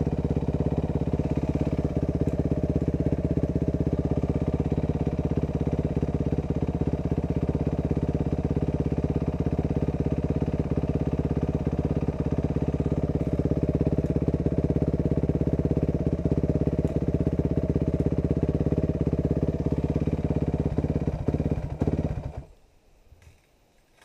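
Off-road motorcycle engine idling steadily close by, then shut off about 22 seconds in, cutting out abruptly to near silence.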